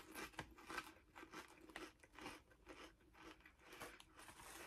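Faint, irregular crunching of a person chewing Lay's Limón potato chips with her mouth closed.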